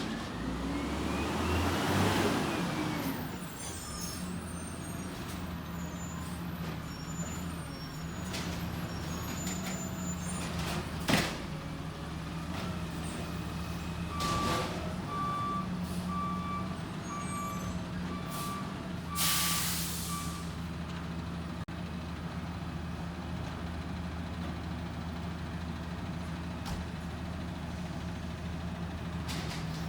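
Garbage truck's diesel engine running steadily. A reversing alarm beeps a little more than once a second for several seconds, and near the middle a short air-brake hiss cuts across it. A rising-then-falling engine note comes at the start, and a single sharp knock comes a little before the beeping.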